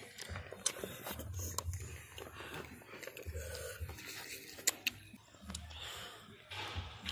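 Close chewing and crunching of battered fried food, with scattered sharp crunches over an on-and-off low rumble.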